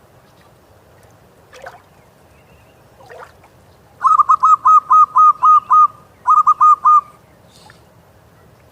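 Zebra dove (perkutut) cooing: a rapid run of about eight clipped, ringing notes, a short break, then four more.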